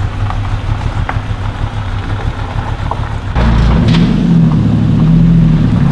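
Buick GS V8 idling with a low, steady rumble. About three and a half seconds in, a cut to a louder, steadier engine drone from the Nissan 240SX pulling in.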